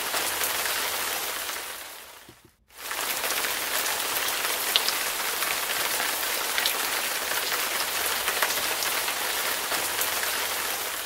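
Heavy rain falling, a dense steady hiss with scattered drop ticks. It fades out and cuts back in about two and a half seconds in.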